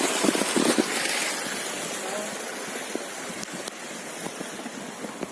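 Steady rushing of running water, growing quieter after about two seconds.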